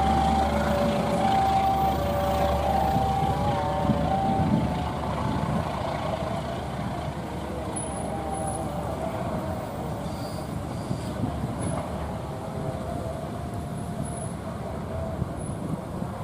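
A train running past with a heavy, steady rumble, loudest in the first few seconds and then easing off. Over it, an electronic warning signal alternates between two beeping tones for the first four seconds or so.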